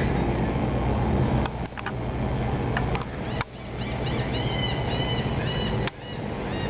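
Laughing gulls calling, a quick run of short, nasal, rising-and-falling notes from about four to six seconds in, over a loud steady low rumble. A few sharp clicks mark the first half.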